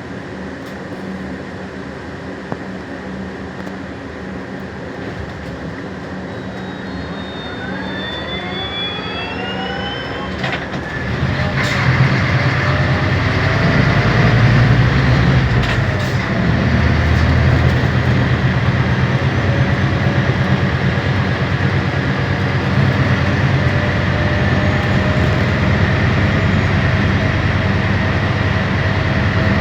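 Scania K320 hybrid bus pulling away: its electric drive gives a whine that rises in pitch for a few seconds. From about eleven seconds in the sound gets louder, with a steady low drone under a steady high tone.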